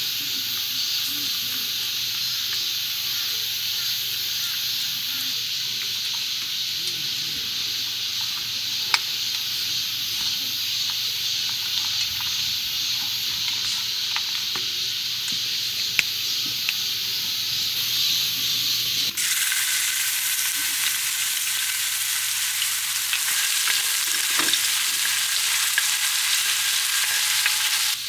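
Food sizzling steadily in a hot pan or griddle, with a couple of sharp clicks, and the sizzle changes abruptly about two thirds of the way in.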